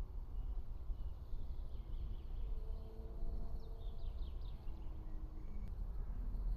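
Forest ambience: a steady low rumble of outdoor noise, with a faint songbird giving a quick run of five or six short high notes about halfway through.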